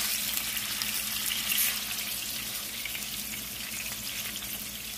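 Salmon fillets frying in hot oil in a pan: a steady sizzle.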